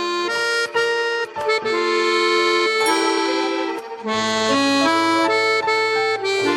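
Accordion playing a melody over sustained chords as an instrumental introduction, with a low bass note joining about four seconds in.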